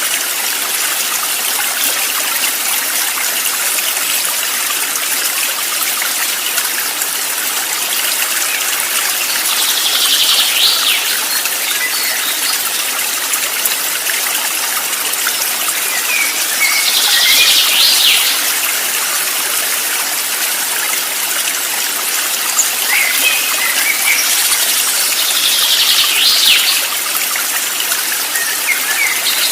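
Steady rush of flowing stream water. A short high bird song phrase rises above it three times, about seven or eight seconds apart, with a few softer chirps in between.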